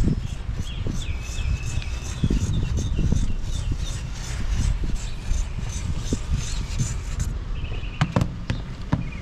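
Scissors cutting fiberglass cloth: a run of crisp, evenly spaced snips, about three or four a second, over rustling of the cloth, then a few sharp clicks near the end.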